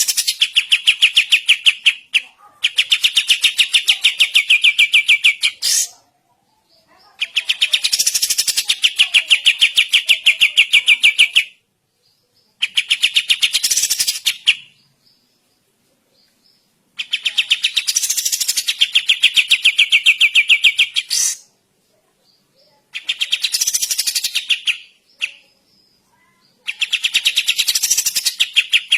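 A kapas tembak bulbul singing its loud, fast rattling trill, repeated in bursts of two to four seconds with short pauses between them, some bursts ending on a sharper note.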